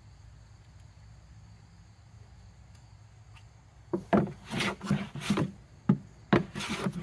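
Hand plane taking a quick series of short strokes across a board, about eight rasping passes in three seconds starting about four seconds in, shaving away tear-out.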